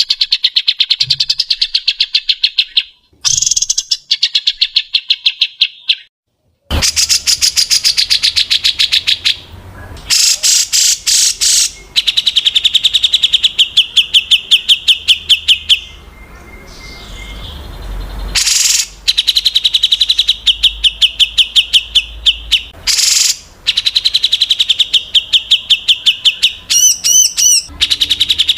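Songbird trilling: long, very fast, high-pitched trilled phrases repeated one after another, with short gaps and a brief dead stop about six seconds in. It is a recorded 'isian' song used to teach white-rumped shamas new phrases.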